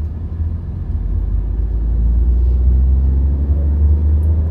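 Tata Nexon 1.2-litre three-cylinder turbo-petrol engine heard inside the cabin as a deep, steady drone, growing louder about a second and a half in. It is labouring at low speed in too high a gear: the gear ratio is not matched to the road speed.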